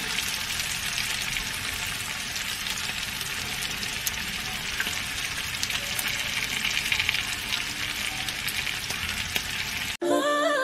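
Sliced bell peppers and onions sizzling and crackling in a hot skillet, a steady frying hiss with small pops. It cuts off suddenly near the end, and hummed music begins.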